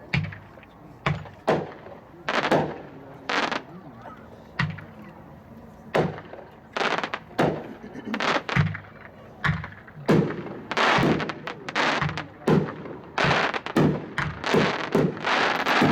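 Two Revolver 10-shot fireworks cakes fired side by side: a rapid, irregular string of sharp bangs from the shots launching and bursting overhead. The bangs come thicker in the second half, some trailing off in a crackle.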